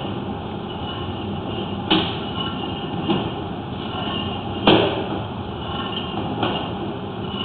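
Sewer inspection camera's push cable being fed through the sewer line, a steady rumbling scrape with faint squeaks. Four sharp knocks, about two, three, four and a half and six and a half seconds in, the third the loudest, as the camera moves along the pipe.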